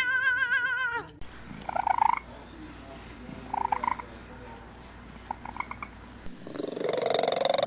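House cats vocalizing, in several short clips one after another. First a long meow with a wavering pitch breaks off about a second in, then three short meows come roughly two seconds apart over a faint steady high whine, and near the end there is a loud, close purr-like sound.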